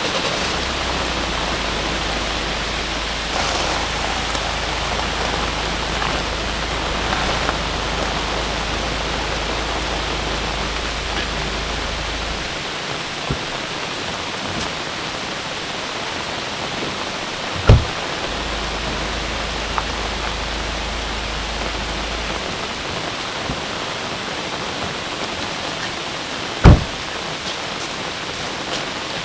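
Steady heavy rain. Two loud sharp thuds fall about 18 and 27 seconds in, and there is a low steady rumble through the first half.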